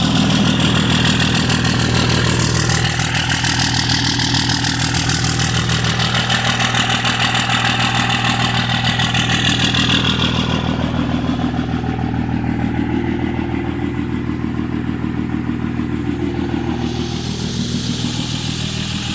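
Cold 5.9 Cummins inline-six turbodiesel idling steadily through a 4-inch straight-pipe exhaust, the cold start sound of the engine. The higher, sharper part of the sound drops away about halfway through and comes back near the end.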